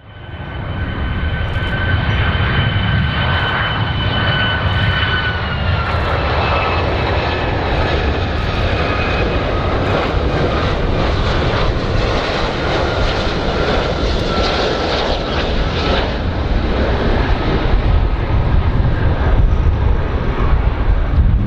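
Aircraft engines running loud and steady, a deep rumble under a high whine that drops slightly in pitch a few seconds in.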